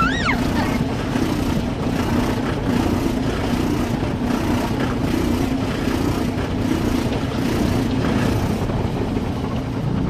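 Automatic car wash machinery working over the car, heard from inside the cabin: a loud, steady rumble and rush of brushes and water against the body. A short high squeal comes right at the start.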